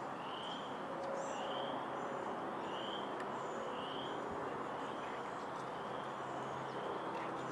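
A songbird repeating a short rising whistled note about once a second, over a steady rushing outdoor background noise.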